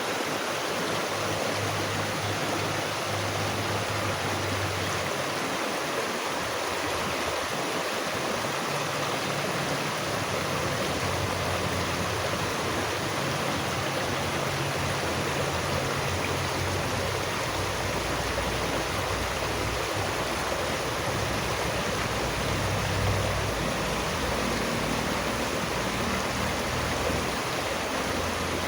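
Running water of a stream, rushing steadily without a break, with a shifting low burble underneath.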